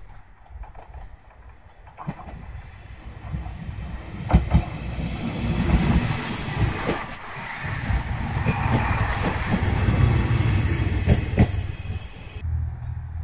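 JR West KiHa 126 series diesel railcar passing close by: its running noise builds as it approaches, is loudest as it goes past, and fades away near the end. Several sharp clacks come as its wheels cross rail joints.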